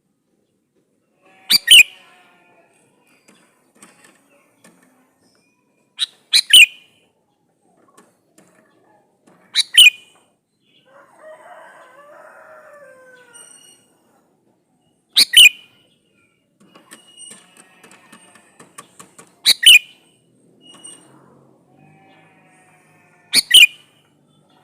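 Male sooty-headed bulbul (kutilang) calling: six loud, short calls a few seconds apart, each a quick pair of notes, with fainter, softer warbling between them.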